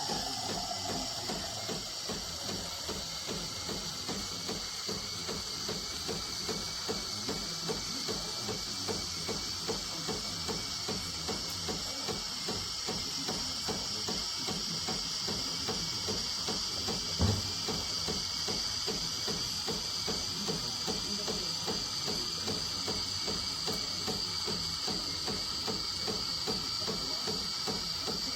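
Krups Sensation C50 bean-to-cup coffee machine running, with a steady hiss over the fast, even pulsing of its pump. One short thump comes about seventeen seconds in.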